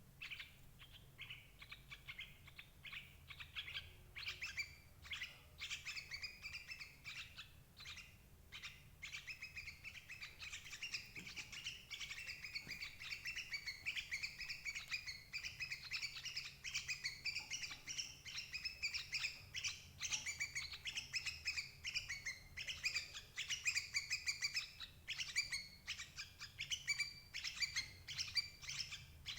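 Yellow-vented bulbuls (crucuk) calling in a fast, continuous chatter of short, clustered notes that grows louder after the first few seconds. This is a lure recording for trapping the parent birds.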